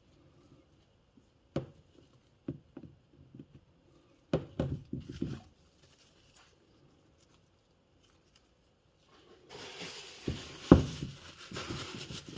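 Scattered small clicks and knocks of motor parts being handled and fitted during reassembly, with a quiet stretch in the middle. Near the end there is a low hiss and a few more knocks, one of them sharp and louder.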